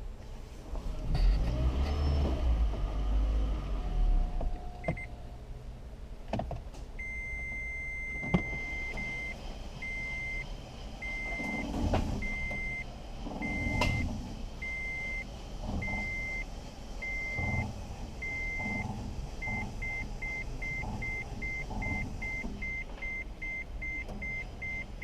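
Toyota Prius warning chime: one long beep, then evenly repeated beeps that switch to a faster pace later on. Low rumbling and a few knocks sound in the first seconds.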